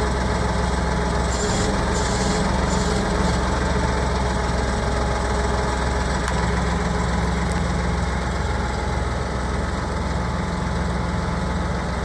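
Valtra A93 tractor's diesel engine idling steadily.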